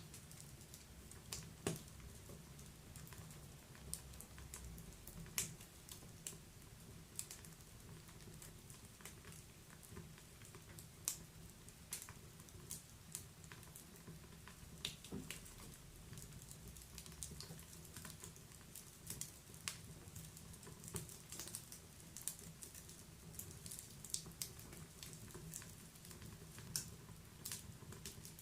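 Wood fire crackling in a fireplace, with irregular sharp pops and snaps over a soft low background.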